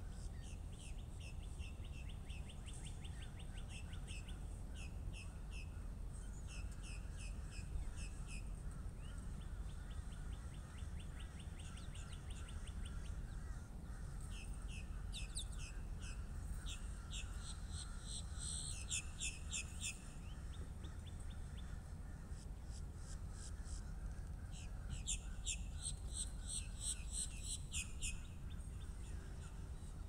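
Wild birds calling in quick rattling runs of high notes, each run lasting a second or two, repeated many times and loudest in the middle and near the end, over a steady low background rumble.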